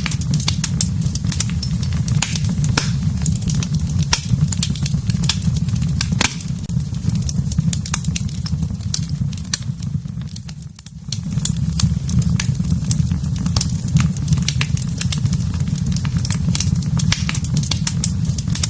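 Fireplace fire crackling, with frequent irregular pops over a steady low rumble of the flames. The rumble dips away for about a second near the middle.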